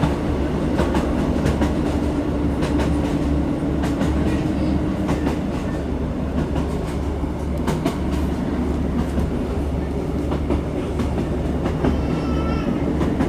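Diesel passenger train running, heard from inside the carriage: a steady low rumble of engine and wheels, with irregular clicks as the wheels pass over the rail joints.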